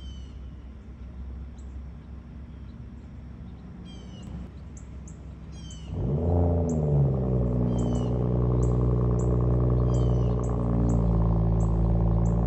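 Small birds chirping, then about halfway through a truck engine starts up. It flares briefly in pitch and settles into a steady idle.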